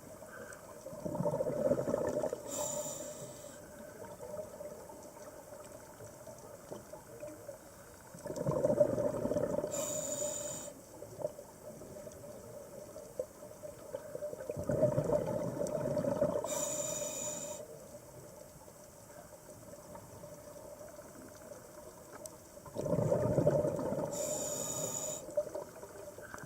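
Scuba diver breathing through a regulator underwater: four breaths about seven seconds apart, each a gurgling rush of exhaled bubbles ending in a short high hiss from the regulator.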